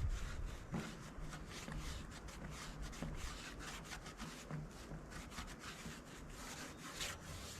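Rag wiping and rubbing a metal fuel tank clean with paint thinner: a faint, irregular run of short scrubbing strokes.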